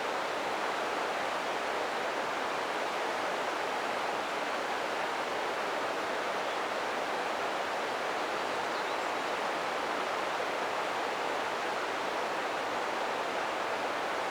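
Ōta River flowing: a steady, even rush of running water.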